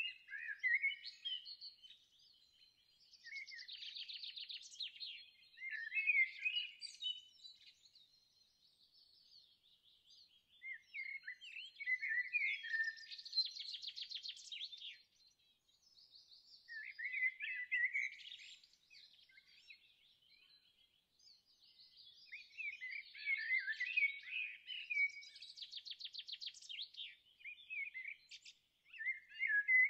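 Songbirds singing: phrases of quick chirps and twitters alternating with rapid buzzy trills, coming in bouts every few seconds with short quieter gaps between.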